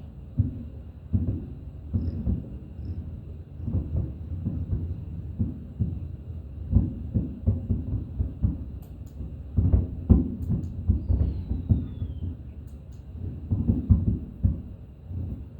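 Aerial fireworks shells bursting in quick succession, a dense run of low booms and thuds, with the heaviest clusters near the middle and near the end.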